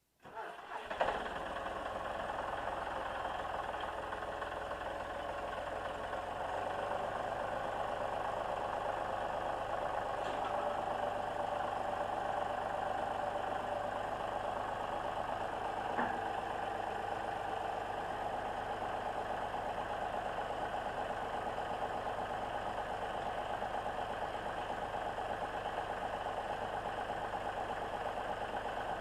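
John Deere 5065E tractor's diesel engine running steadily. It comes in abruptly, with a brief louder burst about a second in.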